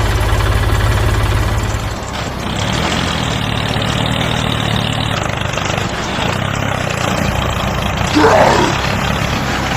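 The small motor of a homemade mini tractor running steadily, its sound changing about two seconds in. A brief louder sound comes near the end.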